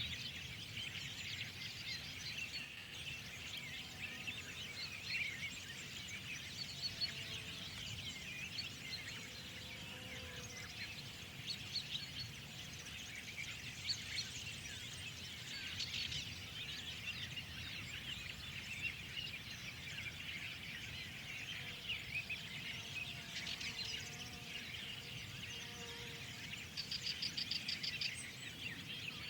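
A spring chorus of many songbirds chirping and singing at once, with dense, overlapping high chirps, over a low steady background rumble. Near the end one bird gives a fast trill of rapidly repeated notes.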